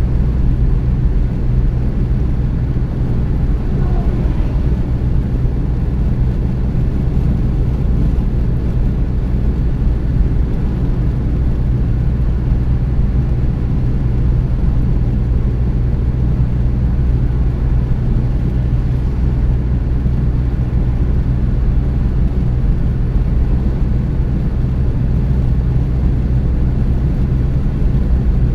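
Car driving at a steady speed: an unbroken low rumble of engine and road noise.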